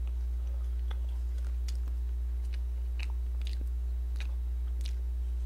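A person chewing a mouthful of cream cake, faint scattered mouth clicks and smacks, over a steady low electrical hum.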